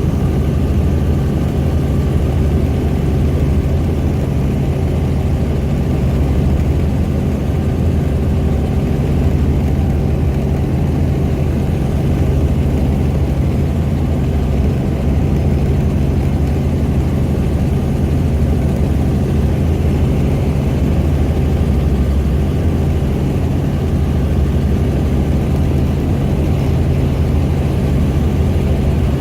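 Helicopter turbine and rotor drone, a steady low hum with no change in pitch or level.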